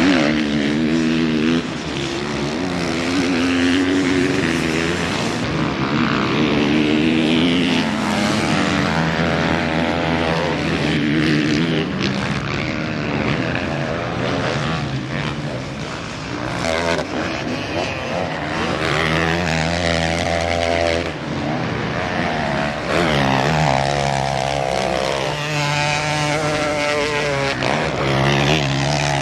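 Several motocross bikes racing on the track, their engines revving up and down with gear changes, the sounds of different bikes overlapping.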